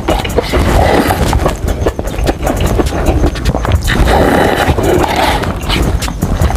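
Loud, close-miked chewing of crispy fried chicken, with crunching and crackling clicks in a repeating rhythm of bites and chews.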